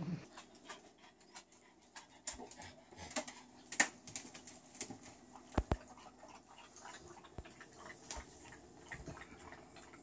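A French bulldog's claws clicking and tapping on a hardwood floor and a refrigerator shelf as it climbs into an open fridge. There are scattered light taps, a louder click near 4 s, and two sharp knocks a little past halfway, over a faint steady hum.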